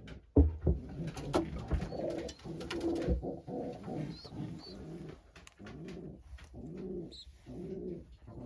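Racing pigeon cooing in the loft: a run of short, low coos repeated a little under a second apart. A few sharp knocks come early on, the loudest about half a second in.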